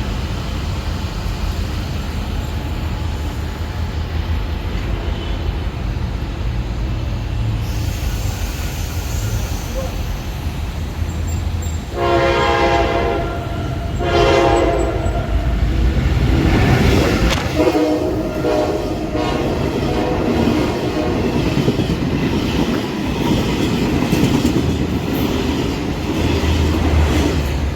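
Express passenger train approaching at speed with a low rumble, sounding two horn blasts about halfway through, then rushing past with the loud clatter of its wheels and carriages on the track.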